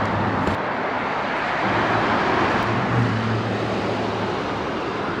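Road traffic noise: a vehicle passing, with a low engine hum that rises in the middle and then fades.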